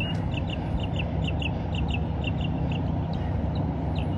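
A bird calling in a fast run of short, sharp notes, about four or five a second, over a steady low rumble.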